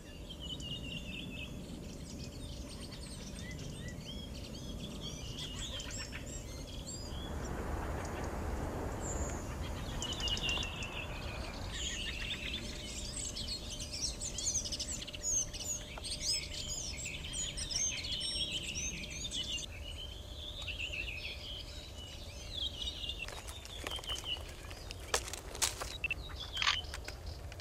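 Songbirds chirping and calling, with quick clusters of high notes that are busiest through the middle. A stretch of hiss lasting a few seconds comes about seven seconds in, and a few sharp clicks sound near the end.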